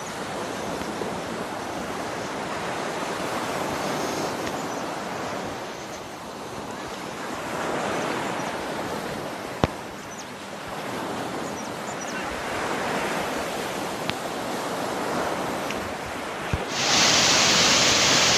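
Rushing noise of flowing water swelling and fading every few seconds, with a few sharp clicks. Near the end it gives way abruptly to the much louder, brighter rush of a waterfall close by.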